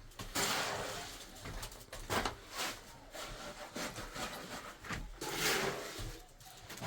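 A few rough scraping or rubbing strokes of uneven length, the longest near the start and another about five seconds in.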